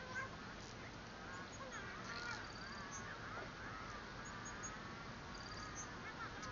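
Faint bird calls, several overlapping, their pitch sliding up and down, with a few brief high chirps.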